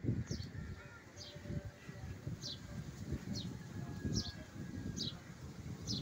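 A bird repeating a short, high call that falls in pitch, about once a second, over a low uneven rumble on the microphone.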